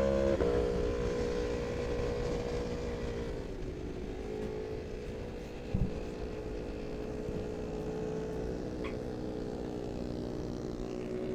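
Aprilia RSV4 superbike's V4 engine running at a high, steady speed, recorded onboard. Its pitch drops slightly about three seconds in and then holds. There is a short thump about six seconds in.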